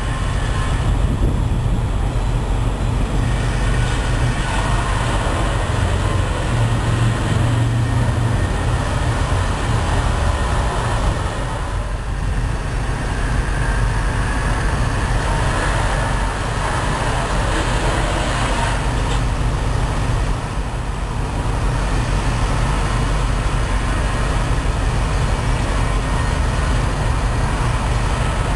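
Car wash running: a steady low rumble with an even hiss of water spray over it. The hiss swells and fades a few times.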